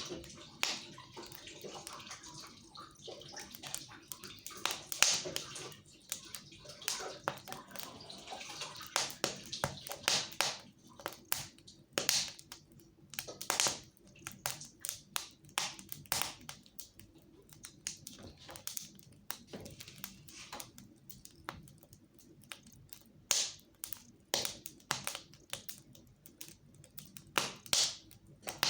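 Fire crackling in a fireplace: a steady run of small irregular crackles, with a louder pop every few seconds.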